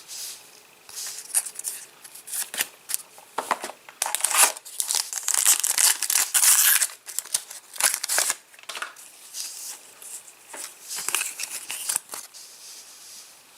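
A foil trading-card packet being torn open and crinkled, with cards handled: dry rustling and crackling, heaviest about five to seven seconds in.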